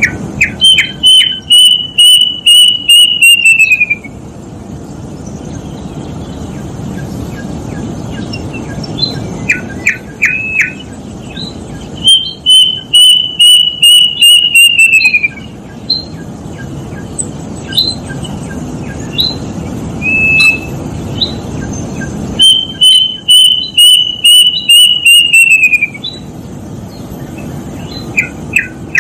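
Kedasih, a Cacomantis cuckoo, singing three long runs of about ten clear whistled notes each: near the start, about 12 s in and about 22 s in. Each run drops in pitch toward its end, with a few short rising notes between the runs. A steady low background noise runs underneath.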